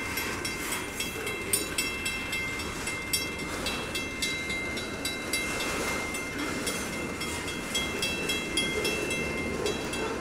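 Union Pacific freight train of autorack cars rolling by at a road crossing, the cars' wheels clattering steadily over the rails. The crossing bell rings throughout with a steady repeated ding.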